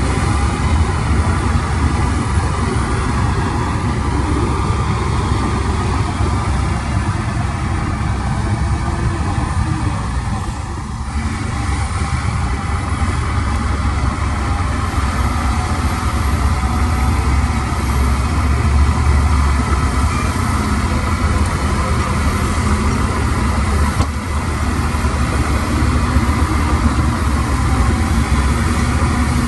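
Heavy diesel construction machinery running steadily, with a strong low engine sound that dips briefly in level about eleven seconds in.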